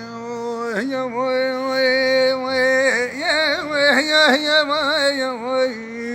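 Male voice singing rakrouki, a Tunisian folk song: a long held vowel that turns into wavy, ornamented slides in pitch, with no clear words.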